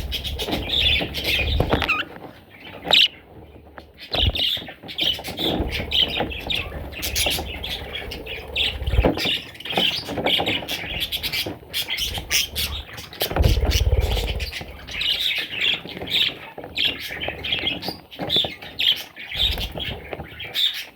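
Baby budgerigars chirping and squawking in a rapid, continuous chatter, with some low rustling and thuds mixed in.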